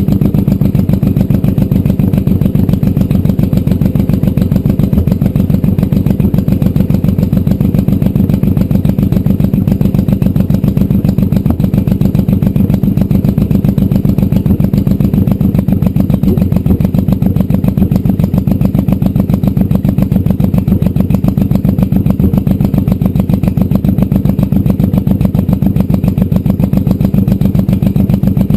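Honda VTX 1800 V-twin motorcycle idling steadily and loudly just after start-up, its exhaust pulsing evenly. The pair-valve intake port is being blocked off at intervals, which the owner expects to stop the exhaust pops and give a slightly deeper tone.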